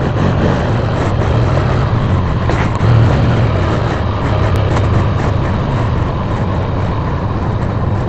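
Motorcycle engine running steadily, with an even hiss over it.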